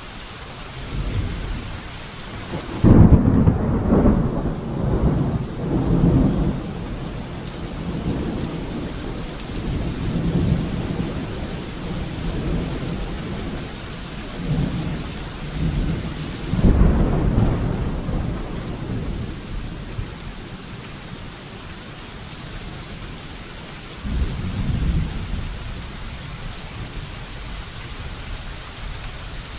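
Steady rain with rolling thunder. A loud rumble starts about three seconds in and rolls on for several seconds, a second loud one comes about halfway through, and a weaker one follows near the end.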